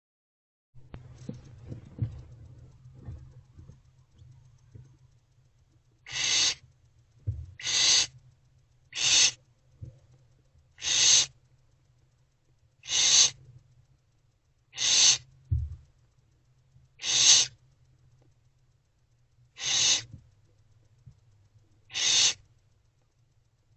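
Barn owlets making their hissing, snore-like begging calls: nine separate rasping hisses about two seconds apart, starting about six seconds in. Faint rustling comes before them.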